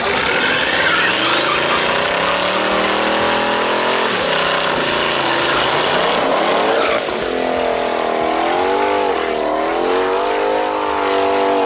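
Drag-racing car accelerating hard at full throttle, its engine note climbing with a high whine rising alongside, a brief drop about four seconds in like a gear change, then holding a high, wavering note.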